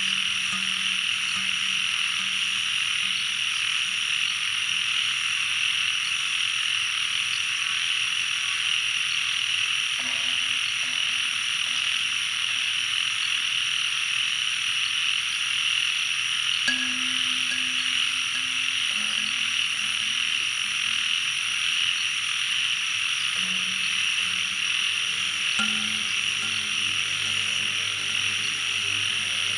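Dense, steady chorus of frogs and insects from a nature recording, with a soft synth drone underneath that moves to a new low note a few times.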